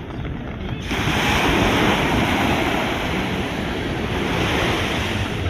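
Sea surf breaking onto the beach: a loud rush of waves starting suddenly about a second in and holding on.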